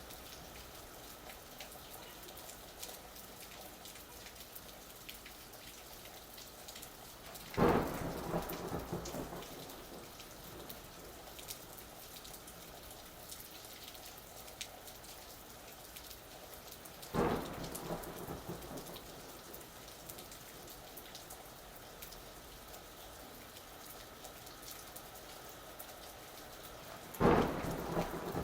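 Steady rain with three sudden claps of thunder about ten seconds apart, each fading out over a second or two.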